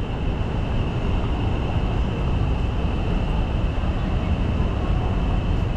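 Steady city street noise dominated by a low rumble, with a faint steady high-pitched tone over it.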